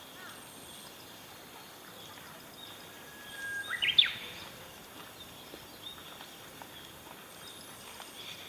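Quiet outdoor ambience broken by one short, loud bird call about four seconds in: a brief level whistle and then a sharp upward sweep in pitch.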